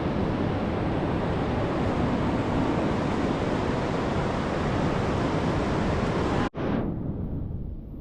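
Ocean surf with wind buffeting the microphone, a steady noise that breaks off abruptly about six and a half seconds in. After the break, quieter wind rumble on the microphone remains.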